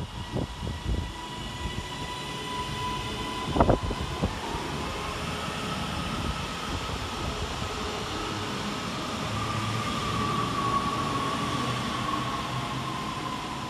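A Northern Class 331 electric multiple unit moving along the platform, with a whine from its traction equipment that rises and then falls in pitch over the noise of the train on the rails. There is a single knock about four seconds in.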